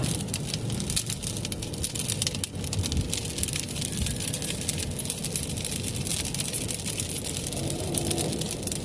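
Rain hitting a moving car, heard from inside: many quick raindrop taps on the roof and windshield over the steady low road and engine noise of the car being driven.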